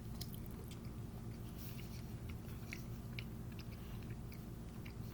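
A person chewing food close to the microphone, with irregular small wet mouth clicks, over a steady low hum.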